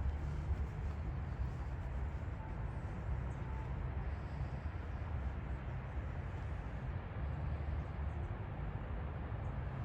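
Steady low rumble of outdoor ambience with no distinct events.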